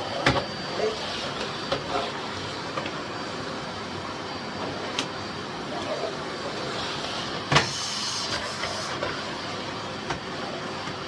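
Miele Blizzard CX1 Cat & Dog PowerLine bagless vacuum cleaner running steadily with a faint high whine, as it is pushed over the floor. Two sharp knocks stand out, one right at the start and a louder one about two-thirds of the way through.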